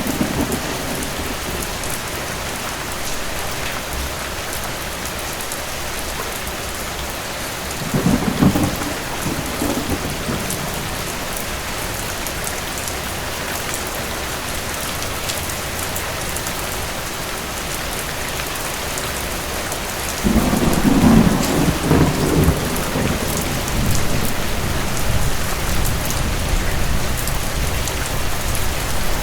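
Steady heavy rain with thunder. A short rumble comes about eight seconds in, and a longer, louder roll of thunder starts about twenty seconds in and fades slowly.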